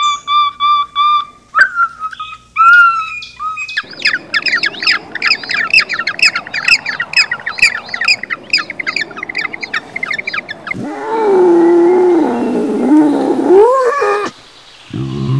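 A sequence of animal calls. It opens with evenly repeated high chirps, then rapid peeping runs for several seconds, typical of a gentoo penguin chick. After that comes a longer, lower call that wavers up and down in pitch, and a short low sound starts near the end.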